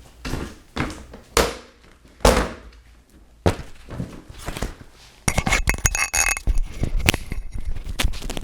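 Handling noises: a few separate thunks, then from about five seconds in a rapid run of clicks and clinks.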